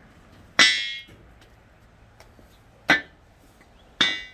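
Three hammer blows on a metal lift spacer being forced into place, each a sharp clang with a brief metallic ring, the first and last longest.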